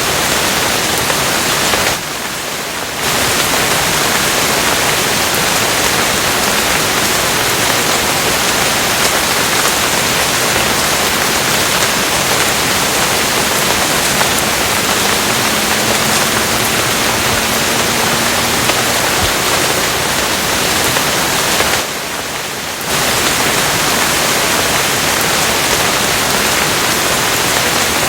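Steady, dense rain hiss with no separate drops standing out. It dips briefly and softer twice, about two seconds in and again near twenty-two seconds, as if the recording were looped.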